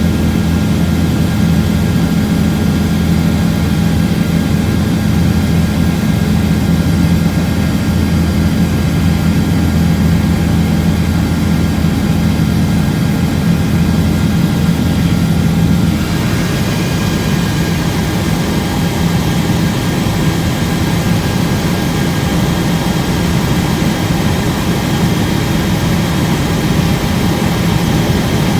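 Helicopter in flight: the steady drone of its engine and rotor. About sixteen seconds in, the deep hum drops away and the sound turns brighter and hissier.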